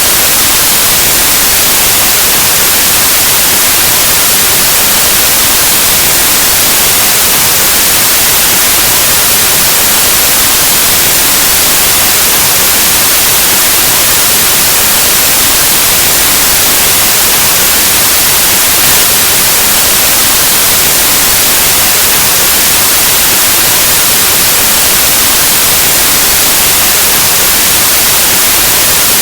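Steady, loud white noise, like the static hiss of an untuned analog television or radio, with no change throughout.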